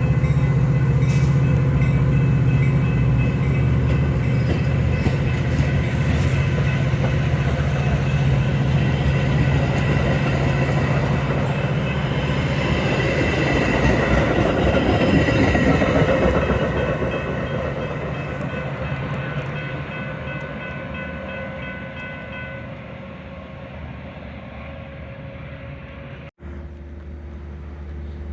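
Metra commuter train passing with its diesel locomotive running and steady high tones over the rumble. It swells to its loudest a little past halfway, then fades away.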